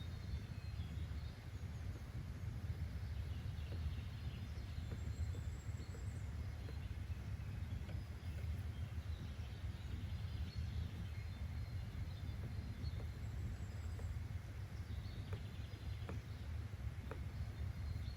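Outdoor nature ambience: a steady low rumble of background noise with faint, scattered bird chirps above it.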